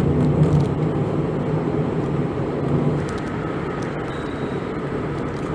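Steady engine hum and road noise heard inside a Toyota Voxy minivan's cabin as it drives, easing slightly about three seconds in.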